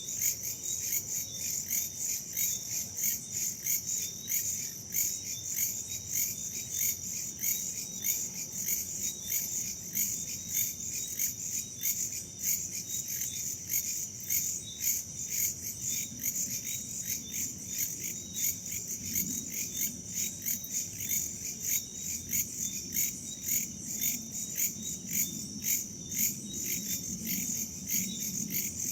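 Chorus of crickets and other insects chirping in steady, rapid, regular pulses, with a low rumble of wind that grows in the second half.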